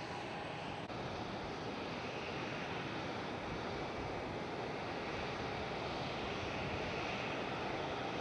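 Airliner engine noise at an airport: a steady, rushing roar that slowly grows a little louder.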